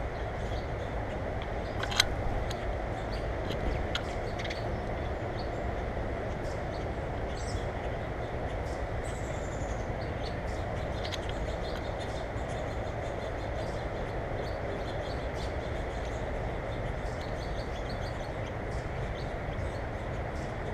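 A steady low rumble with hiss and a few sharp clicks, the loudest about two seconds in. Faint high bird chirps come through it, including a short falling call about nine seconds in.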